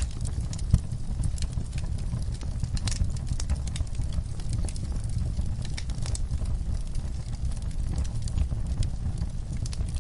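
Wood fire crackling in a fireplace: irregular sharp pops and snaps over a steady low rumble, with one louder pop under a second in.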